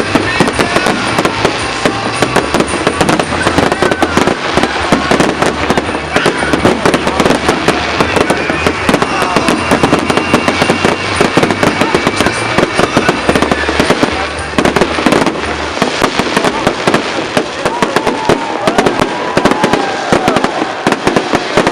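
Fireworks going off in a dense, continuous run of rapid crackles and bangs.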